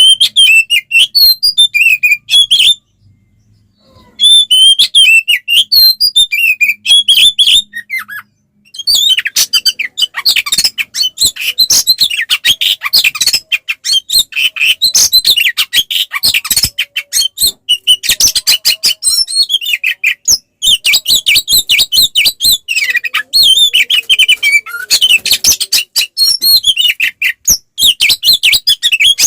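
Oriental magpie-robin (kacer) singing loudly in fast, varied, chattering phrases: the full, aggressive 'fighting' song. There is a pause of about a second and a half about three seconds in, and a shorter break near eight seconds.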